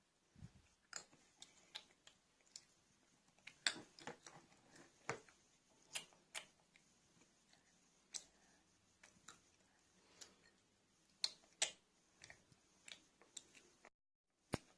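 Light clicks and taps of plastic toys being handled, scattered irregularly over a quiet background.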